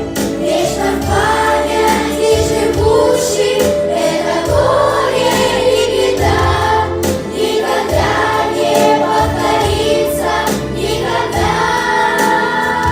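A children's choir singing a song in unison with instrumental accompaniment.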